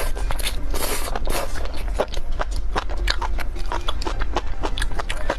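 A person slurping in a mouthful of spicy enoki mushroom strands in the first second or so, then chewing them with many quick wet smacks and clicks of the mouth, over a steady low hum.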